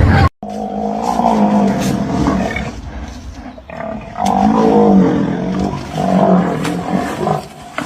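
A large wild animal calling, with two long, pitched growling calls that rise and fall, separated by a quieter stretch. A sudden cut comes just before the first call.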